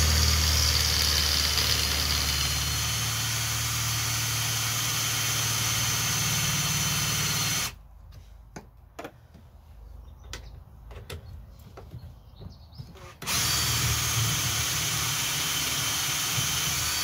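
Electric drill boring out the head of a rusted tow-hitch bolt. It runs steadily for about seven and a half seconds, stops for about five seconds with a few light knocks, then runs again near the end.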